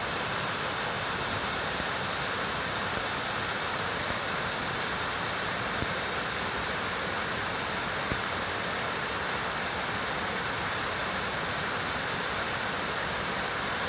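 Mountain stream rushing, a steady even wash of flowing water.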